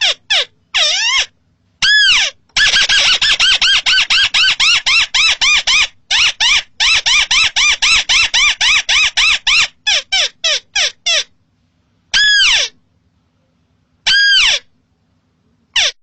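Crake (burung tikusan) calling: rapid runs of rising-and-falling whistled notes, several a second, broken by short pauses, then two single drawn-out notes near the end.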